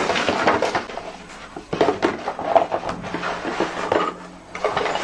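Rummaging among craft tools and card on a tabletop: irregular light clatter, knocks and rustling while searching for a bone folder.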